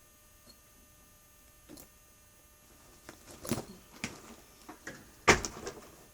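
A series of irregular clicks and knocks, like objects being handled, growing busier about three seconds in, with the loudest, a single sharp knock, a little after five seconds in.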